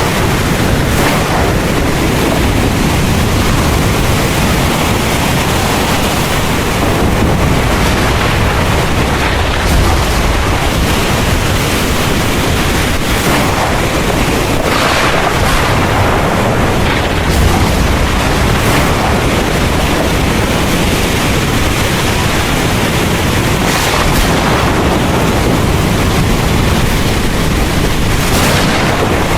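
Heavy rain pouring steadily, with low thunder rumbling beneath it.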